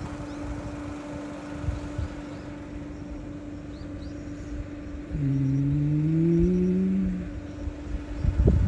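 Car engine running steadily, with a louder engine note rising in pitch for about two seconds a little past the middle as the car accelerates, then easing off.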